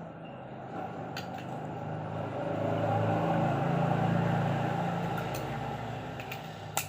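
A low motor hum that swells to its loudest about three to four seconds in and then fades, with a sharp click near the end.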